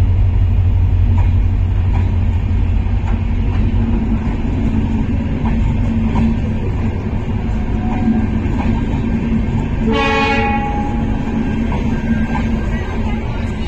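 WDP4D diesel locomotive's 16-cylinder two-stroke engine running with a steady, loud low rumble, and a short horn blast about ten seconds in.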